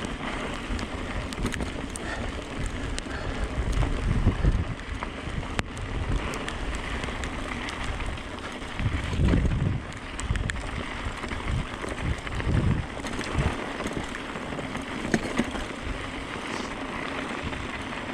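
Steady rain hiss with wind buffeting the microphone in heavy low gusts about four, nine and twelve seconds in, and scattered sharp ticks.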